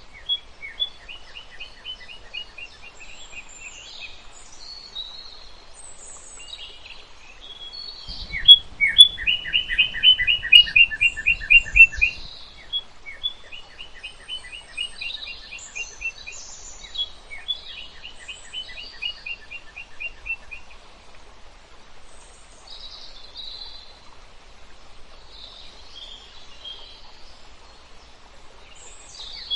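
Small birds chirping, in repeated runs of quick, evenly spaced notes mixed with scattered higher calls. The chirping is loudest from about eight to twelve seconds in, where a low rumble sounds under it.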